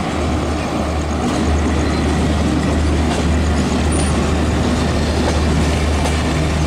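Passenger train heard from on board a coach while under way: a steady rolling noise of wheels on track over a low hum.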